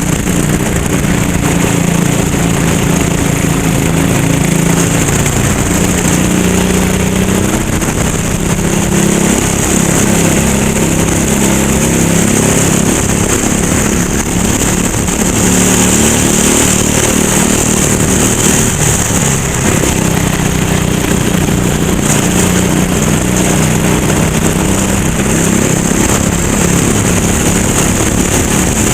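Racing kart engine running hard, its pitch rising and falling again and again as the throttle is opened and lifted through the laps, with a steady high hiss over it.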